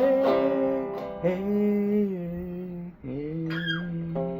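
A voice singing a slow ballad to guitar accompaniment, holding the last word of a line while the guitar chords ring on.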